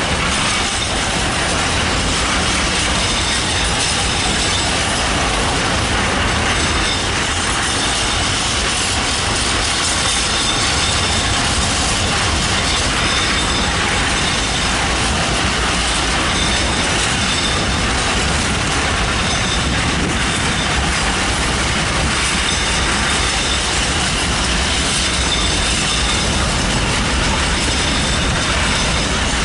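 Freight train rolling past, its wagons running over the rails in a steady, continuous clatter.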